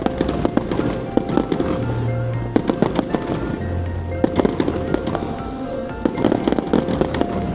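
Fireworks display: a dense run of bangs and crackling pops, with music playing under them.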